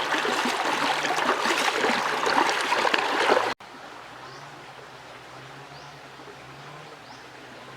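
River water running and splashing close by. About three and a half seconds in, a cut drops it to a much quieter, steady flow of water.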